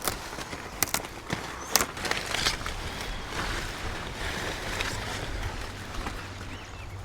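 Forest ambience: a steady natural hush with a few sharp clicks or snaps in the first two seconds and faint, scattered bird chirps.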